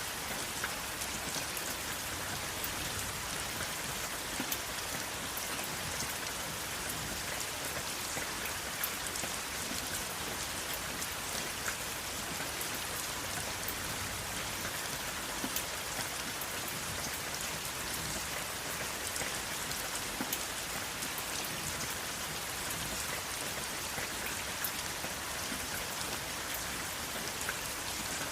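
Steady rain without thunder: a constant hiss of rainfall with many small, sharp drop ticks on a surface scattered through it.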